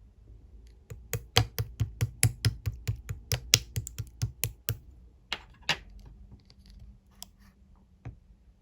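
Clear slime being pressed and worked by hand, making a quick run of sharp clicky pops, about four or five a second, which stop about halfway through, followed by a few more pops.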